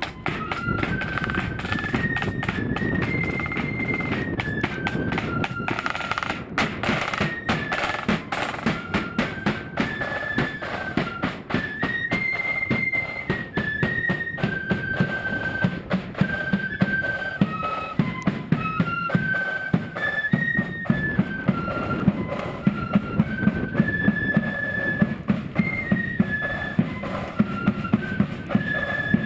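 Blood-and-thunder marching flute band playing a march: a high flute melody over rapid snare drumming and heavy bass drum beats.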